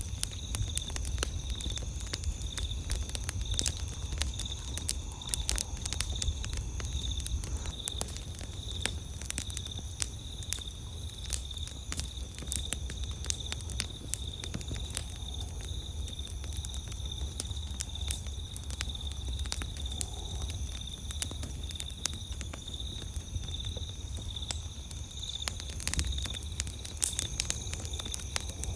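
Wood campfire crackling, with frequent sharp pops and snaps throughout. A steady pulsing chirp of crickets runs behind it, over a low steady rumble.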